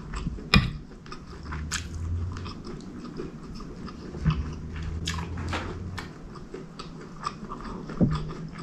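Close-miked chewing of curried chicken and rice, with many irregular wet mouth clicks. A sharper knock comes about half a second in and another near the end.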